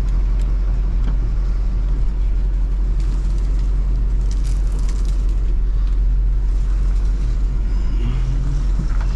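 Snow-plow truck's engine running steadily with a deep, constant low rumble as it plows.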